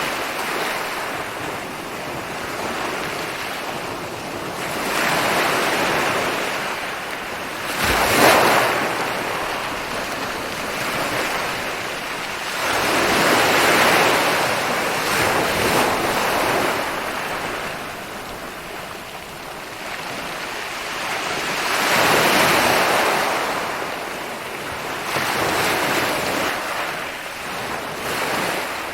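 Ocean waves rolling in and breaking on a beach. The surf swells and falls back every few seconds, with a sharper crash about eight seconds in.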